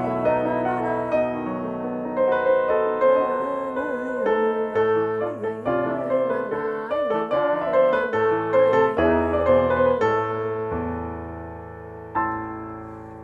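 Keyboard playing a slow nigun melody with chords. A last chord about twelve seconds in rings out and fades away.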